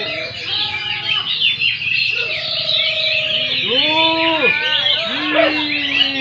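Many caged songbirds singing over one another in a dense mass of chirps and trills. Lower, drawn-out calls rise and fall several times, mostly in the second half.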